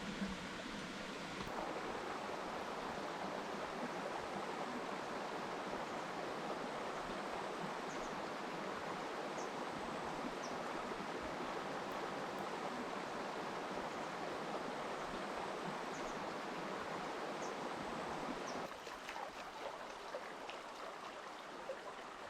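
Steady rush of flowing river water, which drops to a quieter level near the end.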